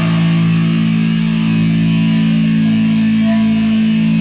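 Electric guitar held ringing on a low chord through the amplifier: a steady, unbroken drone with no drums.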